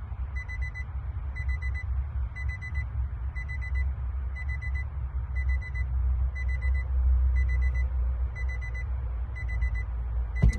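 A car's warning chime beeping steadily, a short high beep about one and a half times a second, over a low rumble. A sharp click comes near the end.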